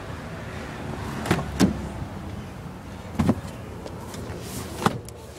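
Four short, sharp clicks and knocks of pickup-truck bed hardware being handled, over a steady background hiss.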